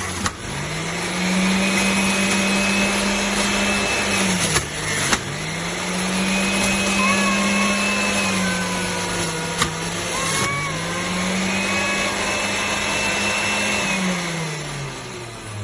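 Moulinex JU420 centrifugal juicer's motor running with a spinning whir and hiss. Its pitch rises, holds steady for a few seconds, then sags and climbs back, about three times over, with a few sharp clicks where it dips.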